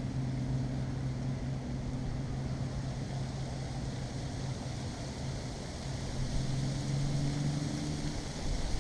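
A motor's steady low hum at one constant pitch, with a light hiss behind it.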